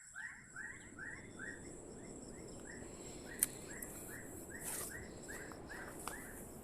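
A bird calling a quick series of short chirps, about three a second, over a faint steady high-pitched insect hum, with a single sharp click about three and a half seconds in.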